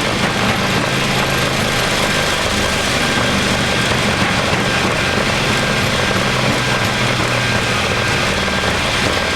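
Boeing 737 MAX on its landing rollout, heard from the flight deck: the CFM LEAP-1B engines in reverse thrust, a loud steady rush of noise over a low engine hum, as the airliner decelerates down the runway.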